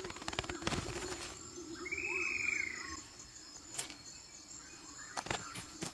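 Forest ambience with a steady insect hum, sharp clicks and rustles in the first second and a few single clicks later, and one arching whistle-like call about two seconds in.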